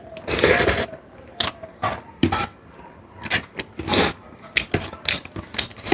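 Close-miked eating: irregular wet clicks and smacks of chewing, with a longer noisy slurp-like burst about half a second in and another near four seconds.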